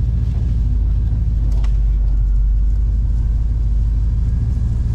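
Chevy 350 small-block V8 in an OBS pickup idling steadily after a fresh start, a loud, even low rumble.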